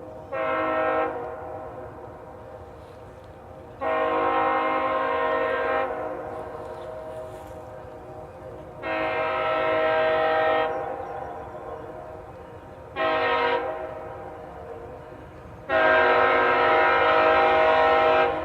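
Locomotive air horn sounding a multi-note chord. After a short opening toot it blows long, long, short, long, the grade-crossing signal. A steady train rumble runs underneath.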